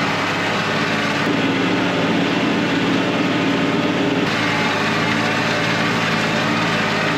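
KIOTI NS6010 compact tractor's diesel engine running steadily under load while it pulls a heavy chisel disc harrow through the field.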